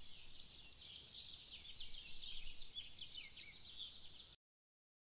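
Faint birdsong: many quick, overlapping high chirps from small birds, cut off abruptly a little over four seconds in.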